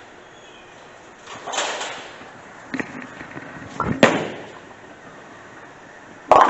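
A bowling shot: the ball is rolled down the lane and strikes the pins with a sharp crash about four seconds in. Another sharp clatter comes near the end.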